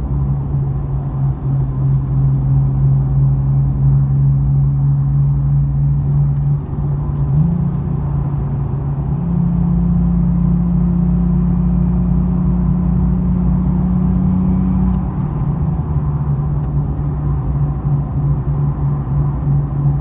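Nissan 370Z's V6 running through a Fast Intentions resonated exhaust under steady throttle, with a low drone that swells and fades in a "wah-wah" about every half second. Partway in the engine note steps up in pitch and holds steady for several seconds, then drops back to the wavering drone. The owner suspects the pulsing comes from something wrong with how the exhaust gases leave the system.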